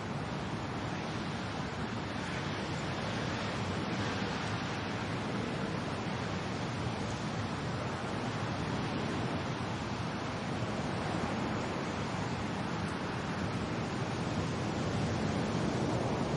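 Steady wind and rain, a dense even hiss that swells slightly near the end.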